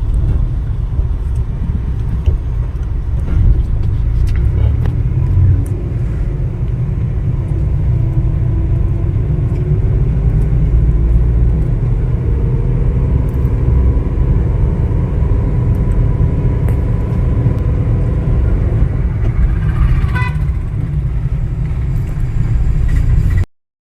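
Car being driven on the road, heard from inside: a steady low rumble of engine and road noise, the engine pitch climbing as it accelerates about a third of the way through and then holding. The sound cuts out abruptly just before the end.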